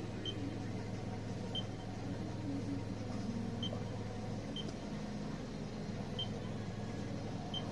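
Low steady hum of a car idling, heard from inside the cabin, easing off a little past halfway, with faint short high beeps every second or two.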